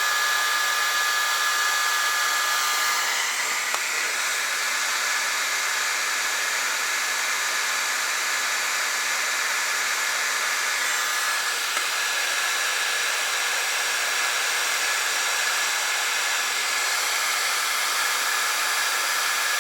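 Electric heat gun blowing steadily with a constant hiss and a thin motor whine, heating a seized nut so it can be undone.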